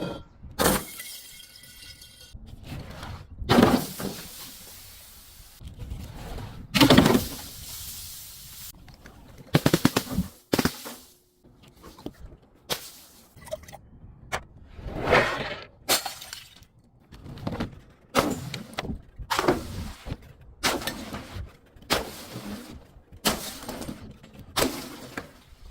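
Glass bottles and other brittle things being smashed and crushed, one after another: a run of sharp crunching and shattering impacts. They come a few seconds apart at first and about once a second in the second half.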